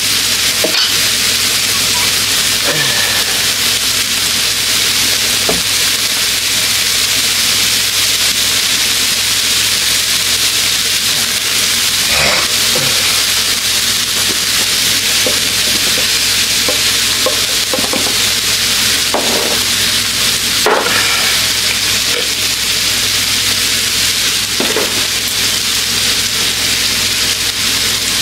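Food sizzling steadily as it fries in a hot pan, with a few light knocks and clicks of handling.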